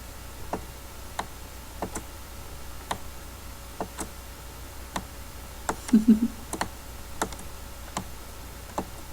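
Computer mouse clicking, single sharp clicks at an uneven pace of roughly one a second, as lines are drawn in a drawing program. A brief low sound about six seconds in is the loudest moment, over a faint steady electrical hum.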